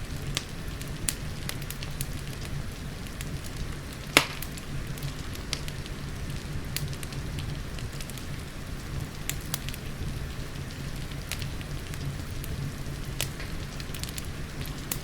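Wood fire crackling, with sharp pops at irregular intervals and one loud pop about four seconds in, over a steady rain and a low rumble.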